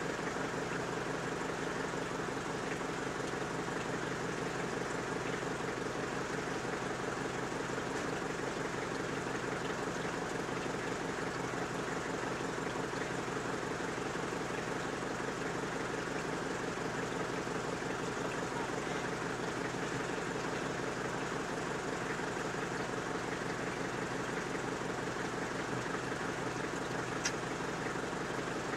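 Suzuki SJ-series 4x4's engine idling steadily, with a fast, even beat and no revving.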